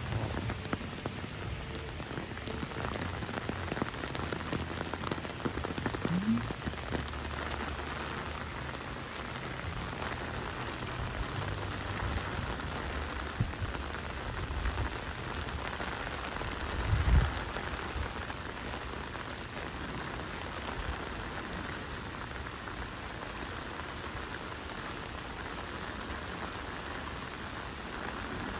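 Steady rain falling, an even hiss of drops on surfaces. A single brief low thump comes about 17 seconds in and is the loudest moment.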